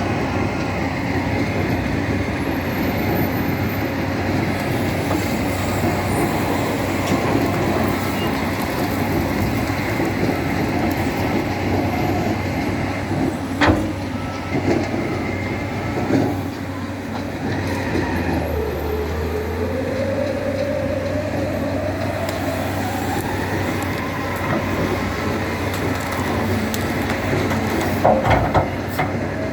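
Loader tractor's engine running steadily at work. A whine climbs in pitch about two-thirds of the way through, and there are sharp clanks about halfway and near the end.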